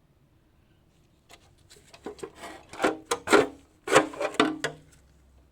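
A run of rubbing and scraping strokes with a few clicks, starting about a second in and loudest about three to four and a half seconds in.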